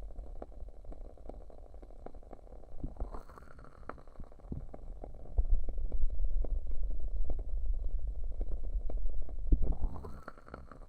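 Wood wick candle crackling with many small sharp pops, over the muffled low rumble of hands cupping and pressing on the ears of a binaural microphone. The rumble grows much louder about five seconds in.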